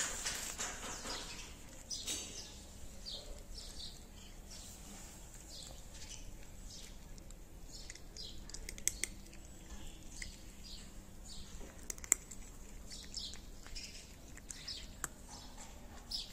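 Small birds chirping again and again in short, high calls, with a few sharp clicks in between.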